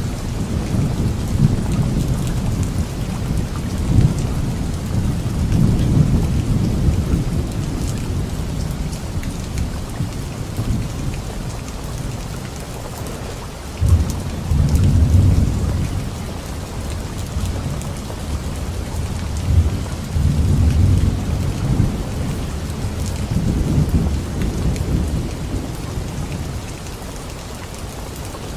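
Steady rain falling on leaves, with thunder rumbling low several times. One rumble starts suddenly about halfway through, and the rumbles fade near the end.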